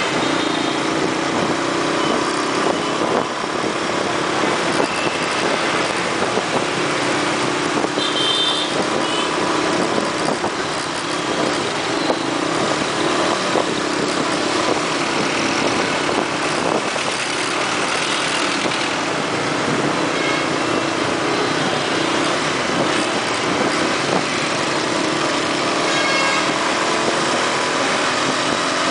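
Dense motorbike and scooter traffic in a city street: many small engines running together in a steady, loud mix. There are a couple of brief high-pitched beeps, about a third of the way in and again near the end.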